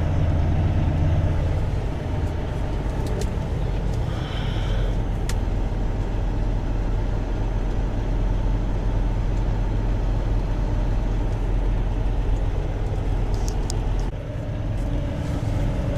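Diesel engine of a semi-truck tractor running steadily while driving, heard from inside the cab. There is a short high beep about four seconds in, and a few faint clicks.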